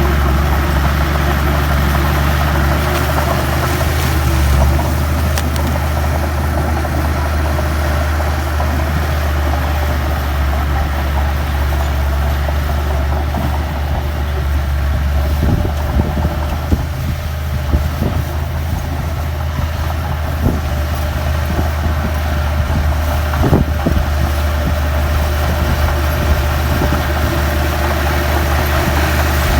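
Heavy diesel earthmoving machinery running steadily with a deep, even engine hum. In the second half a few sharp knocks and clanks stand out above it.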